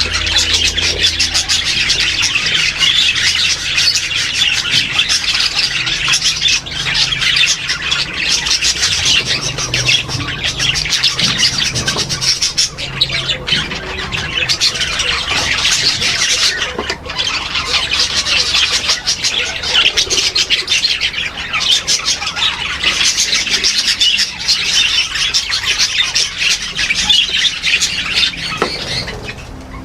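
Many aviary birds chattering and squawking together in a dense, unbroken din of overlapping calls.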